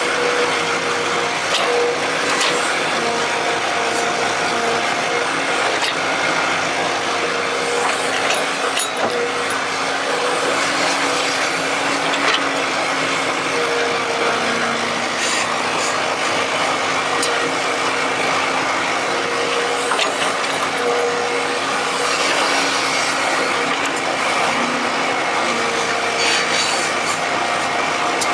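An E120B excavator working, a steady mechanical whine with a lower second tone over a constant scraping hiss, with scattered clicks and knocks.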